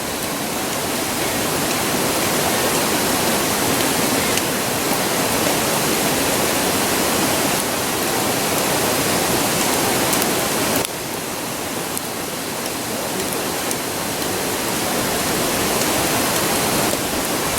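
A river rushing steadily, with a few faint crackles from a wood campfire.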